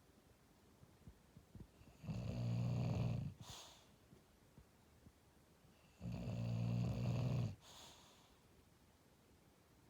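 English bulldog snoring in its sleep: two low-pitched snores about four seconds apart, each lasting over a second and followed by a short breathy exhale.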